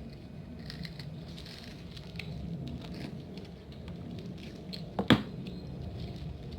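Small plastic snack-prize items and their wrappers being handled: faint rustles and light clicks, with one sharp click about five seconds in.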